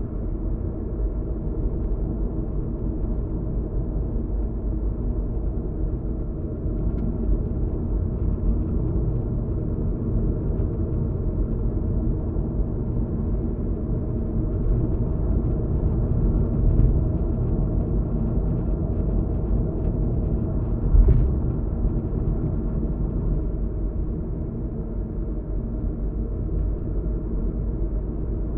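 Steady road and engine noise heard inside a car cruising on an expressway: a continuous low rumble of tyres on the road with a faint steady engine drone over it. One short thump about three-quarters of the way through.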